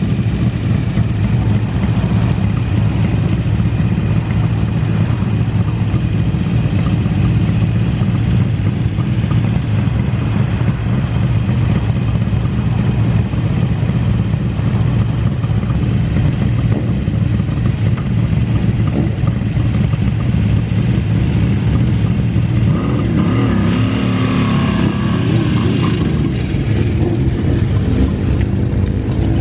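Motorcycle engine running steadily, with the revs rising and falling near the end.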